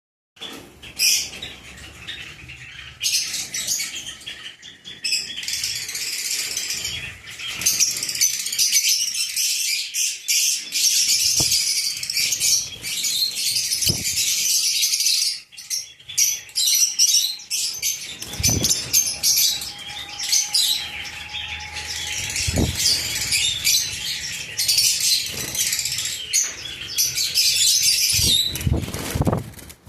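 A flock of lovebirds chattering and screeching continuously, many short high-pitched calls overlapping, with a few dull knocks here and there.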